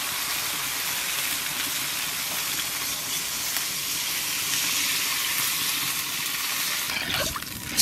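Spice paste (masala) sizzling steadily in hot oil in a wok as water is poured in from a steel mug, the step that follows frying the masala in a curry. Near the end there is a brief low rumble and then a sudden sharp noise, the loudest moment.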